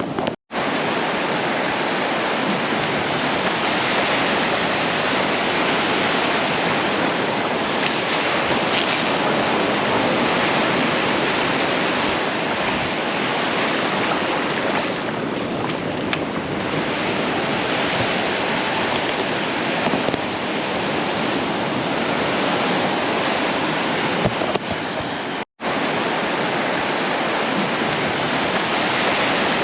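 Surf washing onto the shore, a steady rush of breaking waves. The sound cuts out completely twice, very briefly.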